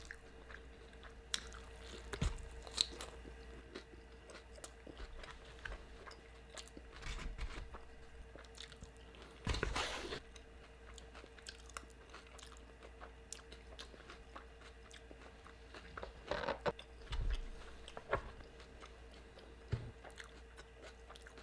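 Close-miked mouth sounds of someone chewing and biting into a fish taco, with crunches and wet smacks scattered through. The loudest bites come about halfway through and again near the three-quarter mark, over a faint steady hum.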